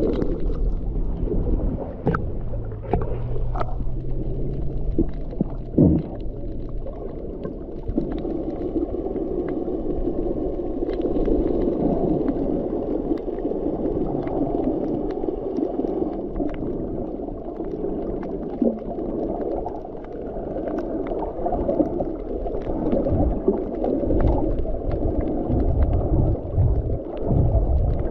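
Muffled water sloshing and gurgling, with low rumbles that grow heavier near the end.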